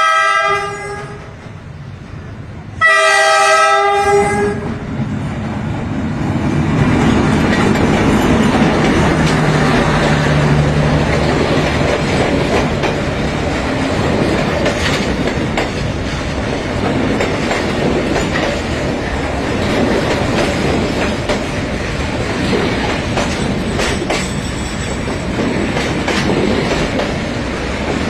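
Train horn sounding twice, a short blast and then a longer one about three seconds in. After the horn comes the steady, loud running noise of a train moving along the rails.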